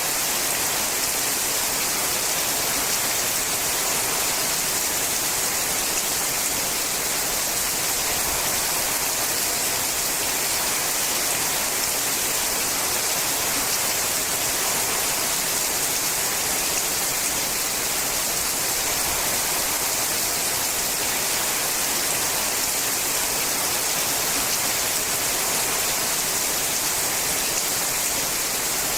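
Steady rain falling on a sheet-metal roof, a dense even patter with no single drops standing out.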